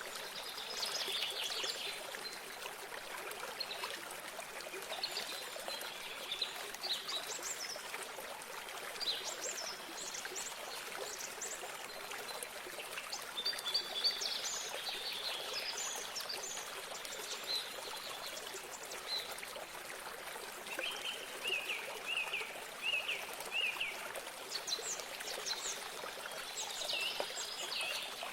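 Running water trickling steadily, with several small birds chirping and singing over it. Towards the end one bird gives a quick series of about six short, repeated notes.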